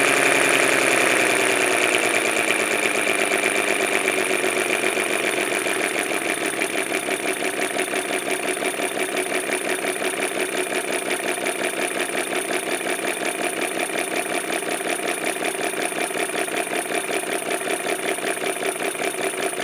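Miniature four-stroke V-12 model engine running: it slows from a higher speed over the first couple of seconds, then settles to a steady idle with an even, rapid pulsing beat.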